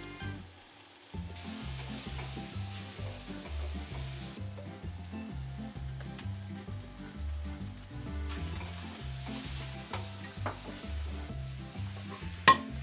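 Octopus pieces sizzling as they pan-fry in hot oil and are turned in the pan, the sizzle swelling in two spells, with one sharp click near the end.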